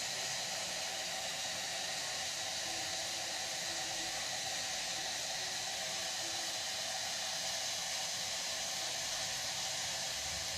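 Steady hiss, even and unchanging, with no distinct events.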